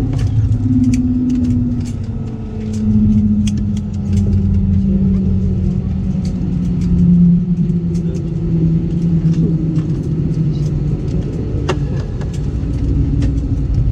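Airliner cabin rumble from an Airbus A320, its engine hum slowly falling in pitch as the engines wind down, with scattered light clicks.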